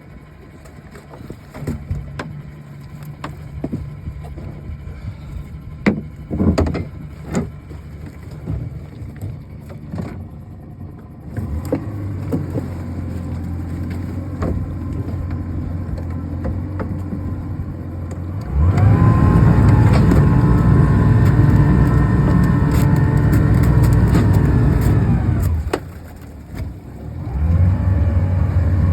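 Boat motor running: a low steady hum with scattered knocks over the first ten seconds, then opened up to a much louder run for about seven seconds, eased back briefly, and throttled up again near the end.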